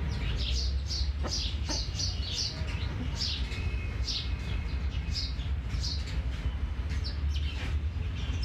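Small birds chirping, repeated short down-sweeping chirps about twice a second, over a steady low rumble.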